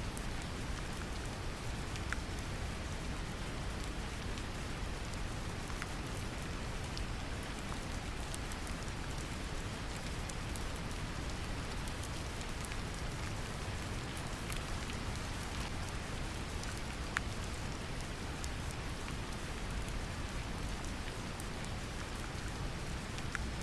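Brown noise mixed with steady rain: a deep, even rushing hiss with the patter of raindrops and occasional faint drop ticks over it.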